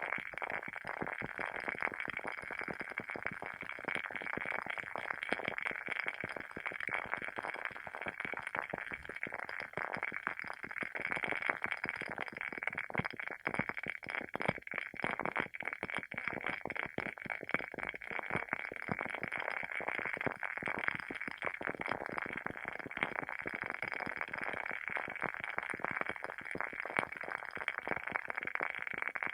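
Wooden wick of a WoodWick candle burning with a steady, dense crackle of many quick small pops and snaps.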